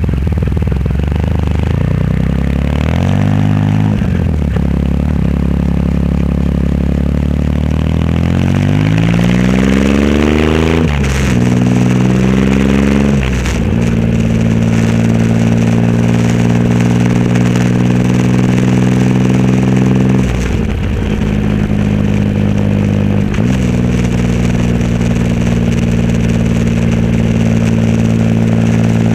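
Triumph Rocket 3 Roadster's 2.3-litre inline three-cylinder engine through a custom exhaust, pulling up through the gears with the pitch rising and then dropping at each change, about 4, 11 and 13 seconds in. It then holds a steady cruise, with two brief dips in engine note near the end.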